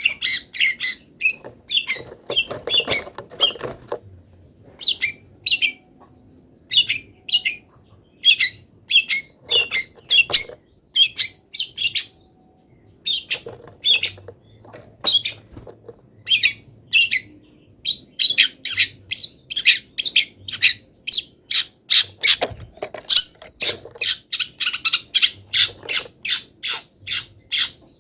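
Long-tailed shrike (cendet) singing a rapid, continuous run of short, sharp chirps and harsh squawks, interleaved with mimicked calls of wild birds.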